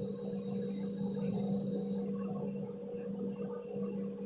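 Steady low droning hum with a second, higher hum above it, plus a faint high whine that stops about halfway, over a soft background murmur.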